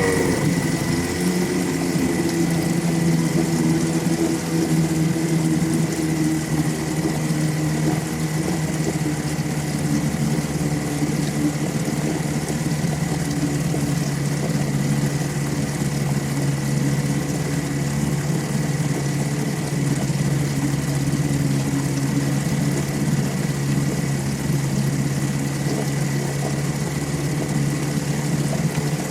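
9.9 hp Evinrude two-stroke outboard motor settling down from higher revs in the first second, then idling steadily.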